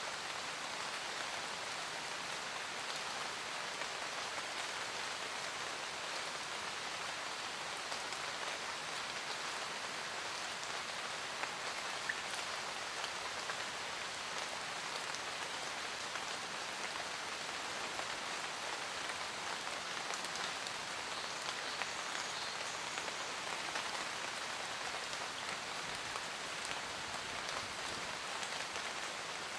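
Steady rain pattering on a camper van roof, an even hiss of drops with a few sharper single drop ticks now and then.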